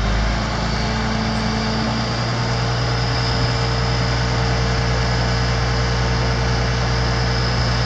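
Kenworth T300 truck's diesel engine idling steadily with a constant low hum.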